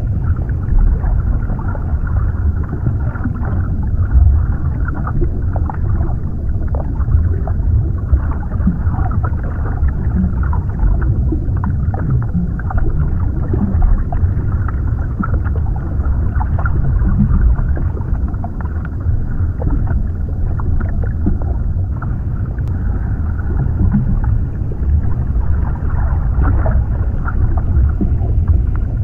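Underwater ambience: a deep, steady, muffled rumble of water, flecked with small bubbling ticks.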